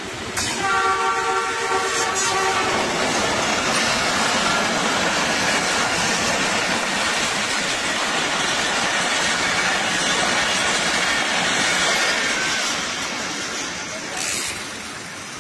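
A Pakistan Railways ZCU-20 diesel-electric locomotive sounds one horn blast of several tones lasting about two seconds as it reaches the camera. Then its train of passenger coaches rolls past with loud, steady wheel-on-rail noise that fades near the end as the last coach moves away.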